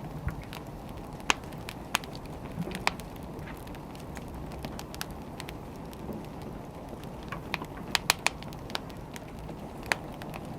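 Wood fire burning, a steady low rumble with irregular sharp crackles and pops from the burning logs.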